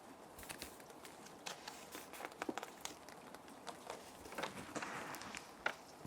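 Plastic sheet protectors crinkling and rustling in irregular short crackles as paper sheets are handled and slid into them, over a steady rain ambience.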